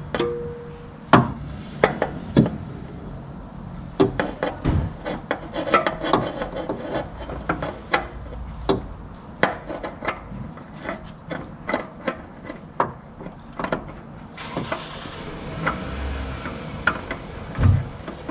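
Hands working a new spin-on oil filter onto its mount from under a car: irregular rubbing and scraping with many scattered knocks and clicks.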